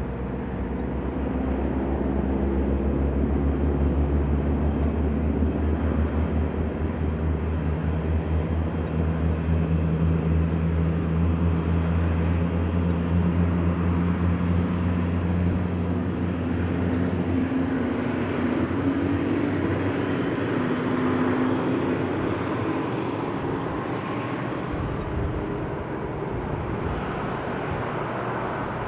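Airliner jet engines running, swelling over the first few seconds, holding loud, then fading into a broad rush.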